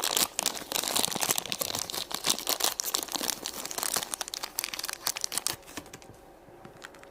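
Plastic packaging crinkling and tearing as a toy is unwrapped by hand, dying down to faint handling about six seconds in.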